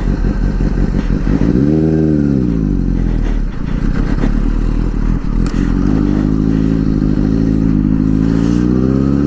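Vehicle engine on the move: it revs up and drops back about two seconds in, then pulls with its pitch rising steadily from about six seconds in, over a low wind and road rumble.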